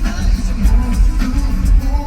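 Loud live pop music: a singer's voice over a heavy, pounding beat.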